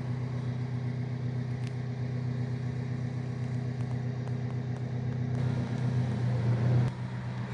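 Alfa Romeo 4C Spider's 1750 turbocharged four-cylinder engine idling with a steady low hum, a little louder for a moment near the end.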